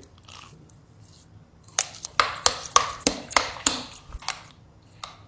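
Chewing a Dubai chocolate-covered strawberry: a run of short, crisp crunchy clicks, about three a second, starting about two seconds in and stopping a little after four seconds.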